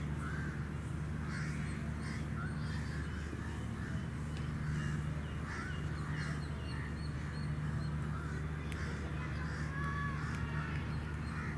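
Birds calling in short, repeated calls, over a steady low hum.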